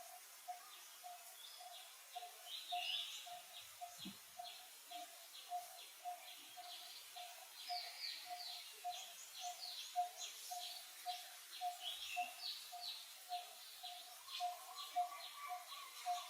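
Birds calling outdoors: one repeated note, about three or four a second, runs steadily under a busy chatter of quick high chirps.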